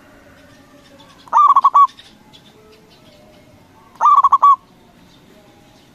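Zebra dove (perkutut) singing: two loud song phrases about two and a half seconds apart, each a quick run of four or five clipped notes after a rising start. Fainter bird calls can be heard between them.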